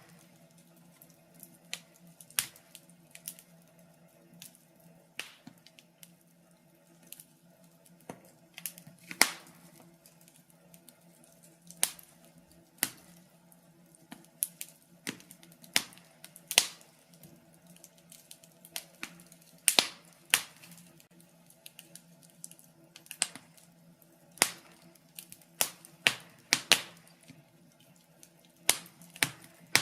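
Wood fire in a fireplace crackling, with irregular sharp pops every second or so over a faint steady hum.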